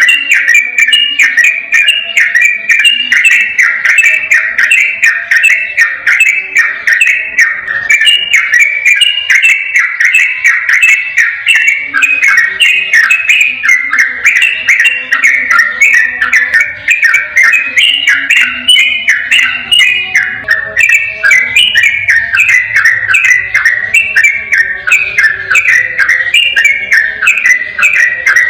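Sooty-headed bulbul singing a rapid, unbroken stream of short, bubbly whistled notes with no pauses.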